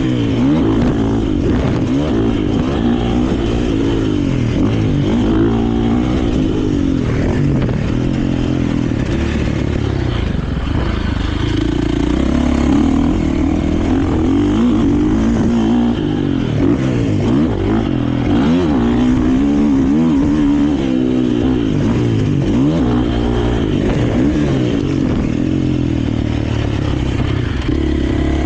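KTM 450 motocross bike's single-cylinder four-stroke engine being ridden hard, its pitch rising and falling over and over as the throttle is opened and closed and the gears change.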